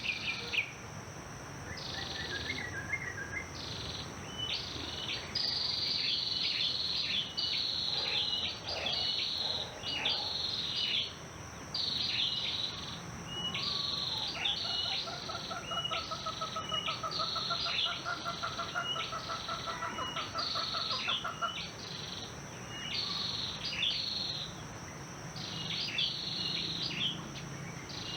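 Songbirds calling over and over, short high chirps about once a second, with a steady high insect drone underneath. Midway a lower, rapid trill runs for several seconds.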